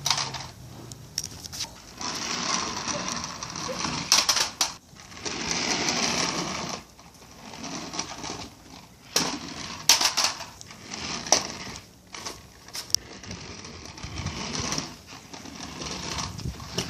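Toy remote-control car's small electric motor whirring in spurts of a couple of seconds, with sharp knocks in between as the car hits the track.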